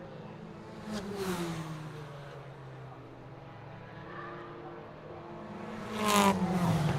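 Car engine passing by, its pitch falling as it goes past. There are two passes, one about a second in and a louder one near the end.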